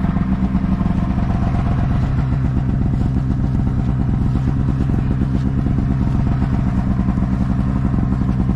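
Snowmobile engine running steadily under way, a loud even drone with a fast pulse.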